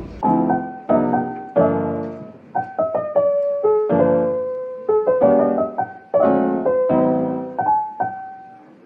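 Gentle solo piano background music: a slow melody of single struck notes that ring and fade one after another.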